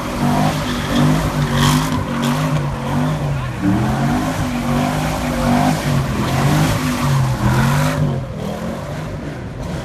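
Car doing a burnout: the engine revs up and down under the hiss and squeal of spinning tyres. The tyre noise cuts off about eight seconds in, and the sound fades.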